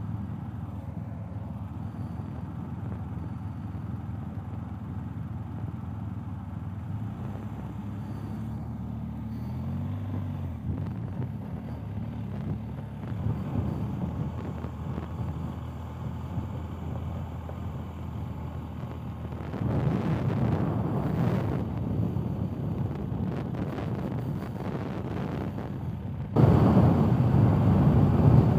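BMW R 1250 GS Adventure's boxer-twin engine running at low speed with wind on the microphone, with a brief rise and fall in engine pitch about nine seconds in. Near the end a sudden cut brings in much louder engine, wind and gravel-road noise of riding at speed.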